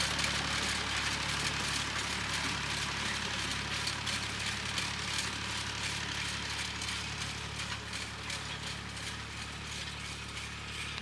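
Massey Ferguson 35 tractor engine running steadily in a field, slowly getting quieter, with a broad hiss over it.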